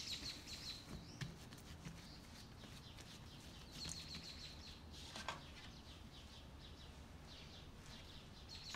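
Very faint room tone with a few short bird chirps in the background, spaced several seconds apart, and a soft knock about five seconds in.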